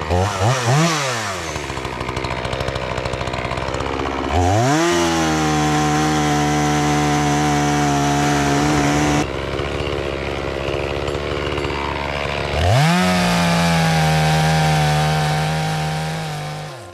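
Chainsaw engine blipped a few times, then twice revved up and held at a high steady pitch for several seconds, cutting a fallen tree into pieces, before coming off the throttle near the end.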